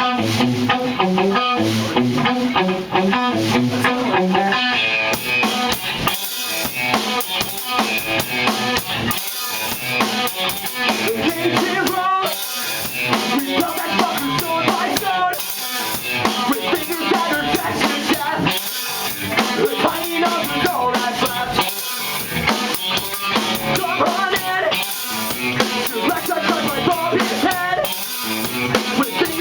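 Rock band of guitar, bass guitar and drum kit playing live, an instrumental passage with no singing. A guitar riff plays alone at first, and the drums and bass come in about five seconds in.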